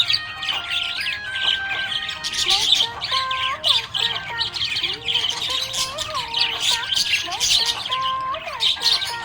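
Budgerigars chirping and chattering quickly and without pause, over a melody playing underneath.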